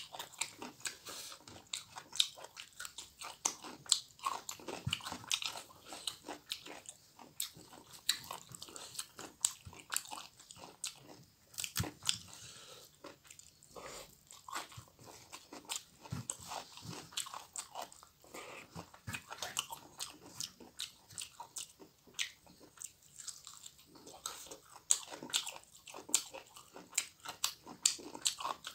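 A man chewing and crunching mouthfuls of rice and fried side dishes, with many sharp, irregular mouth clicks.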